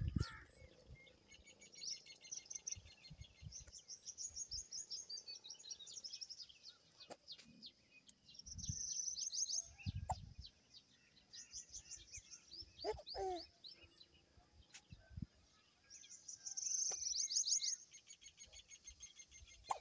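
Small birds chirping in repeated high, rapid trills, each run lasting about a second, with a lower sliding call about two-thirds of the way through and a few dull thumps.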